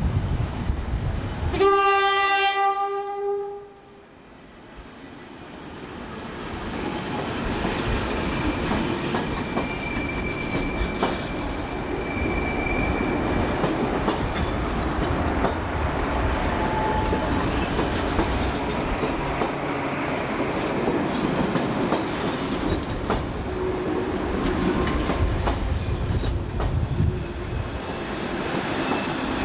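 A train horn sounds one steady note for about two seconds. After a brief drop, a train's running noise builds up over several seconds and then carries on steadily, with rail clicks.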